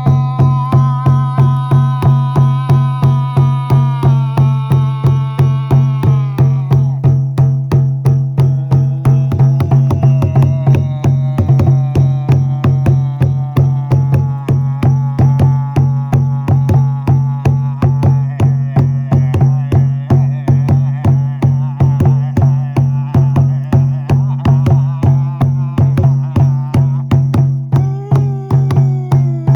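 Music: a frame drum beaten in a steady, even rhythm of about two or three strokes a second over a constant low drone, with held melodic tones that shift in pitch.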